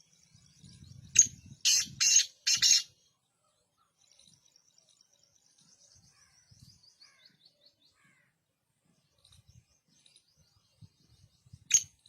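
Black francolin calling: a loud, harsh phrase of about four grating notes a second or so in, and the same phrase starting again near the end. A faint thin high twittering runs in between.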